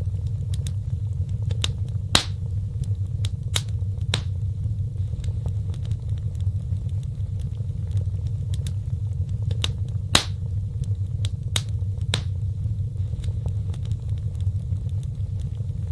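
Wood fire crackling, with scattered sharp pops over a steady low rumble of burning; the two loudest pops come about two seconds in and about ten seconds in.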